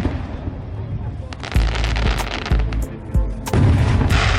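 Aerial fireworks salute shells bursting: a run of sharp bangs and deep booms, sparser in the first second and heaviest near the end.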